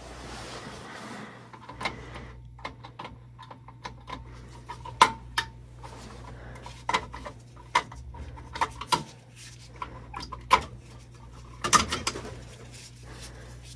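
Sharp metallic clicks and clinks of a screwdriver, screws and wire being handled at an electrical box as a wire is unscrewed and pulled free, scattered irregularly, over a steady low hum.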